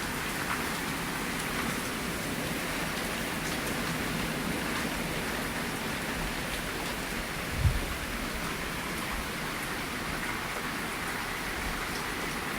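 Heavy rain pouring steadily, with one brief low thump a little past halfway through.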